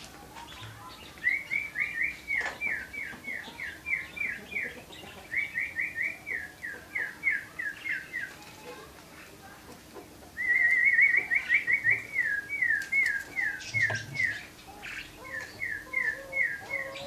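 Canary singing: four phrases of quick, evenly repeated falling whistled notes, about five a second, the loudest phrase starting about ten seconds in.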